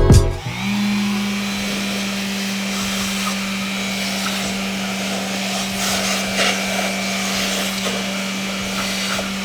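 An electric tool motor spins up about half a second in and then runs at a steady pitch, with a rough hissing whir over it.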